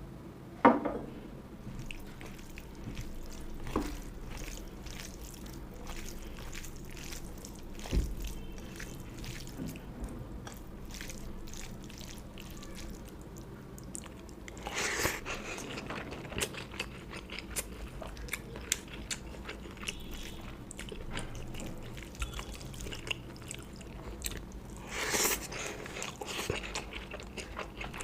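Close-up eating sounds of rice and curry: wet chewing and smacking with many small clicks, and a few louder crunchy bites.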